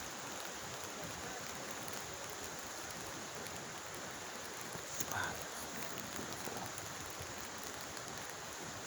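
Steady rush of running water, with one short higher-pitched sound about five seconds in.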